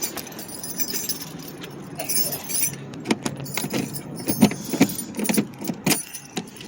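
A bunch of car keys jangling and clinking, with scattered irregular clicks and knocks from handling.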